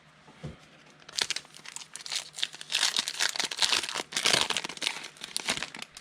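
Foil wrapper of a football trading card pack being torn open and crinkled, a dense crackling from about a second in until shortly before the end.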